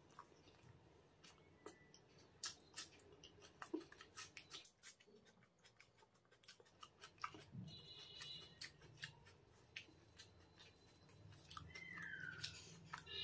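Close-miked mouth sounds of chewing a mouthful of masala egg curry and flatbread: many short, soft wet clicks and smacks, quiet throughout and a little louder near the end.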